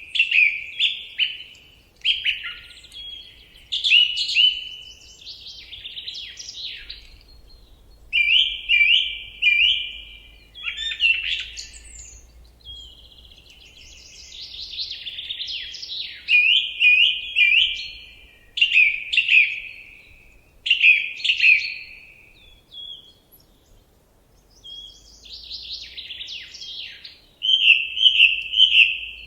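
Forest songbirds singing: loud, quick phrases of repeated chirping notes with short pauses between them.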